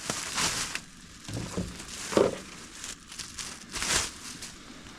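Food packaging crinkling in several short rustles as packs of ground meat are taken out and handled.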